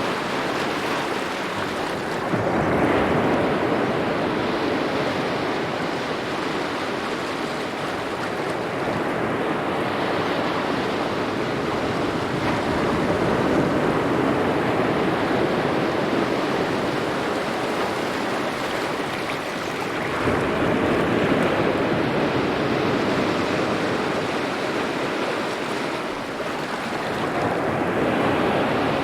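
Small waves lapping and washing ashore, a steady wash that swells with each wave, about three times.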